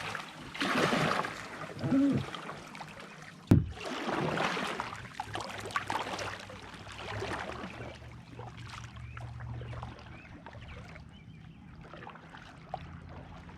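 Water splashing and sloshing around a kayak as it tips and floods, in several loud surges over the first few seconds with a sharp knock about three and a half seconds in, then quieter lapping water with a low rumble.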